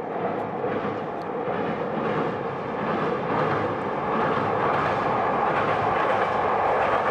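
Kyoto Tango Railway diesel train running across the steel girder Yura River bridge, growing steadily louder as it approaches, with faint wheel clicks over the rail joints.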